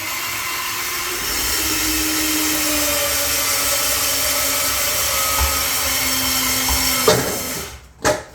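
A power tool or blower motor runs steadily with a loud rushing noise, its pitch sagging slightly, then stops about seven and a half seconds in.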